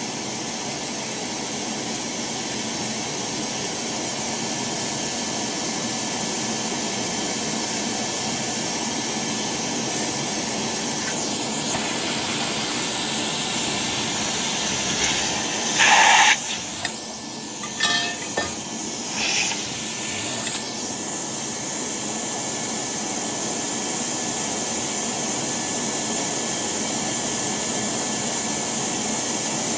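Steady rushing noise of a vacuum running while dirt is cleaned out of the gas boiler's burners. About halfway through comes a short louder burst followed by a few sharp clicks.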